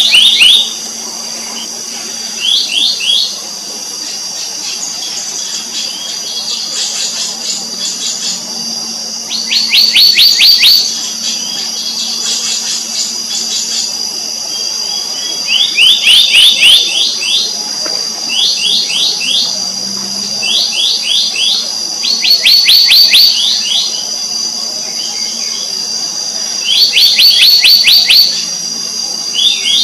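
Black-naped monarchs calling: short rapid series of sharp, repeated notes, a burst every few seconds, over a steady high-pitched insect drone.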